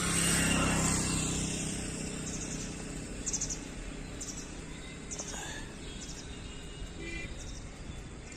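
Small birds chirping in short high bursts, roughly once a second, over steady outdoor background noise. A low hum swells and fades in the first second or two.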